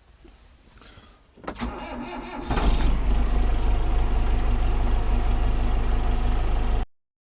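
Tractor engine cranked over by its starter for about a second, then catching and running at a steady idle until it cuts off suddenly near the end.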